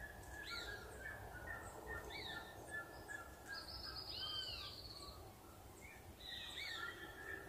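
Wild birds singing: a run of short repeated notes held at one pitch, with rising chirps and a few higher whistled notes over them, against a low background rumble.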